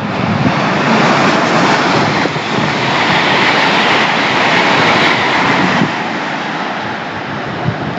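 GWR Intercity Express Train passing through the station: a loud, steady rush of wheel and air noise that is strongest in the first six seconds and then eases a little.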